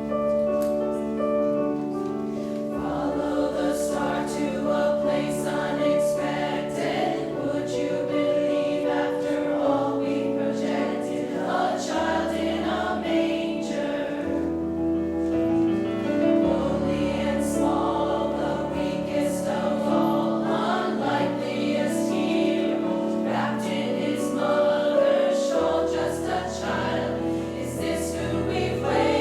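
A choir singing a choral anthem in several parts, held chords shifting every few seconds over long sustained bass notes.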